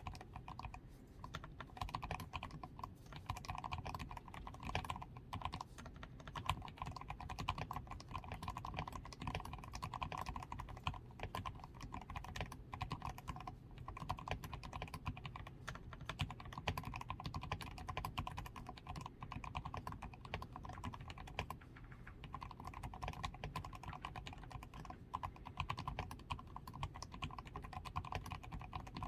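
Continuous fast typing on a DAREU A87 Pro mechanical keyboard, a dense steady stream of keystrokes. The board is fully lubed with Krytox 105 and has a PCB tape mod, foam-reinforced switches, XDA keycaps and lubed stabilizers.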